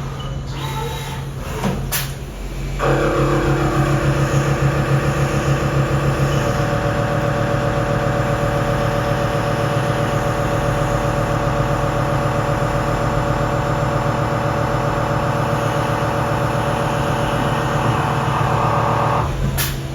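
CNC mill cutting splines with a shell-mill spline cutter on a pump shaft, a re-cut after the cutter's diameter offset was moved because the splines came out over size. Over a steady machine hum, the cutter starts into the cut about three seconds in with a loud, steady, multi-toned cutting whine, which stops shortly before the end.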